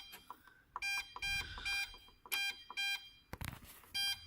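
Dehumidifier control panel beeping as the timer-on button is pressed repeatedly, stepping through the timer hours. There are about six short, same-pitched electronic beeps, and one sharp click about three and a half seconds in.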